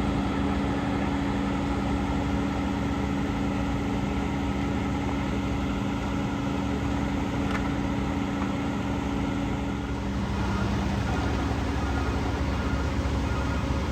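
Heavy diesel truck engines idling with a steady hum; the note changes about ten seconds in.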